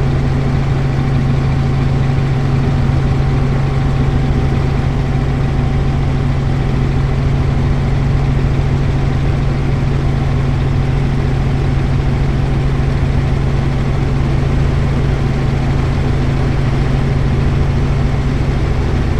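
Helicopter in flight: a loud, steady low drone of engine and rotor that holds unchanged throughout.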